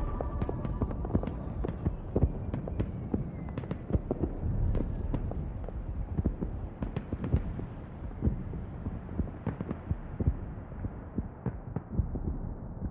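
Irregular crackling pops and clicks over a low rumble, growing steadily duller as the high end fades away.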